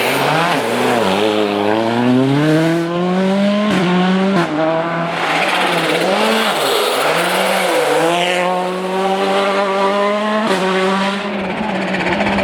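Volkswagen Polo R WRC rally car's 1.6-litre turbocharged four-cylinder engine driven hard. It climbs steeply in pitch twice, about a second in and about eight seconds in, each climb breaking off sharply at a gear change, with shorter rises and dips between.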